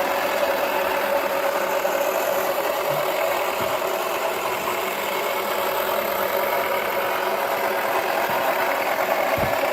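Toy washing machine's small battery motor running steadily with an even whirring hum, and a low knock near the end.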